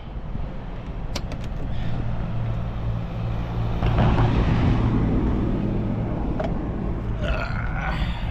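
Diesel engine running steadily, growing louder from about four seconds in, with a few sharp clicks about a second in.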